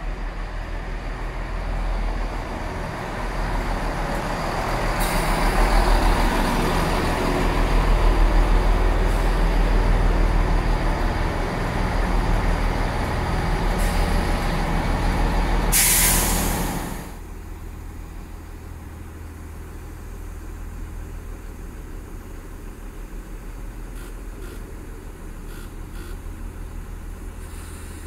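Class 166 Networker Turbo diesel multiple unit running into the station, its engines and wheels growing louder as the carriages pass close by. A short, sharp hiss of air from the brakes comes a little past halfway, and the sound then drops to a quieter steady low diesel hum.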